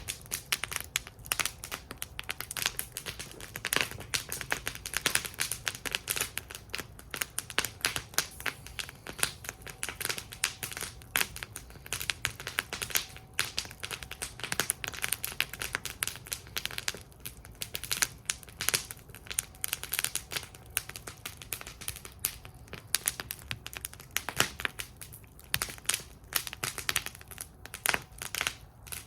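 Wood fire burning in a fire bowl, crackling and popping steadily with many small irregular snaps and a low rumble beneath.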